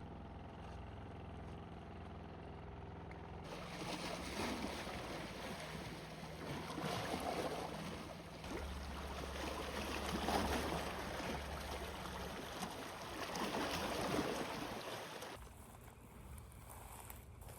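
Rushing water that swells and eases about every three seconds, over a low steady hum; it starts and stops abruptly.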